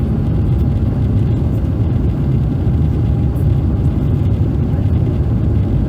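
Steady cabin noise of an Airbus A350-900 climbing out, its Rolls-Royce Trent XWB engines and the airflow making a loud, even low rumble, with a faint steady tone above it.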